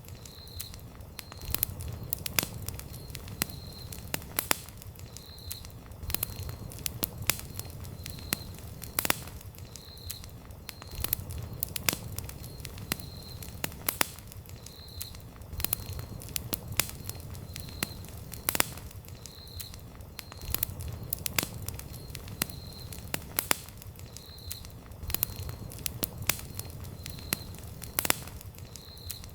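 Wood campfire burning, crackling irregularly with frequent sharp snaps and pops over a low, steady rumble of flame.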